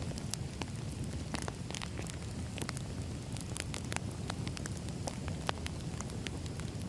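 Firewood burning, a steady low rumble of flames with irregular sharp crackles and pops, several a second.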